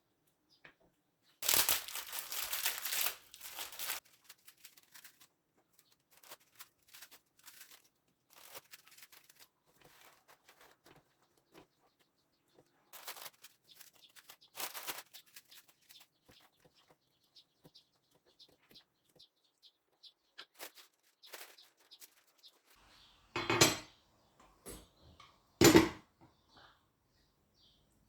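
Kitchen handling sounds: a couple of seconds of rustling or tearing near the start, scattered light clicks and taps, then two sharp knocks near the end.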